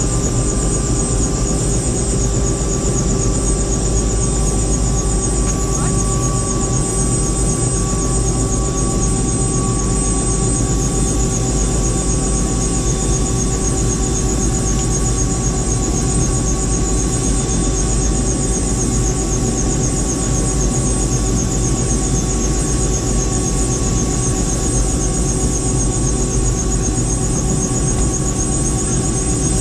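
Helicopter running steadily in flight: a constant low drone with a steady high whine over it.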